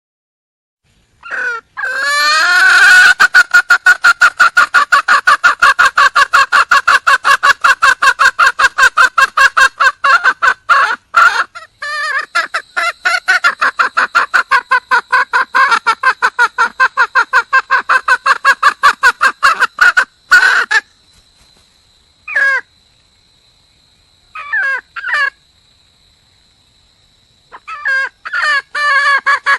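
Red junglefowl hen giving the fast, repeated clucking call of a wild hen calling for a mate, about five notes a second. The call breaks off about two-thirds of the way in to a few short calls, then starts again near the end.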